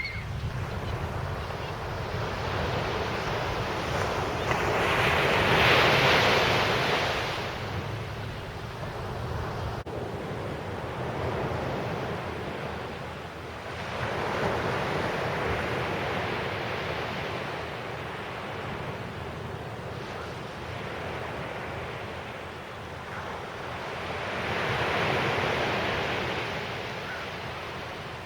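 Sea waves washing onto the beach: three swells of surf rise and fall about ten seconds apart, the first the loudest, over a steady low rumble of wind on the microphone.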